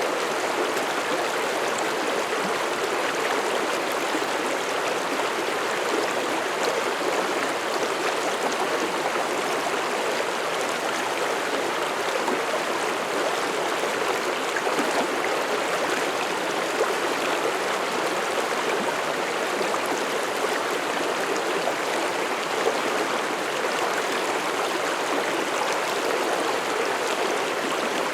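Mountain stream flowing over rocks: a steady rush of water with gurgling and trickling.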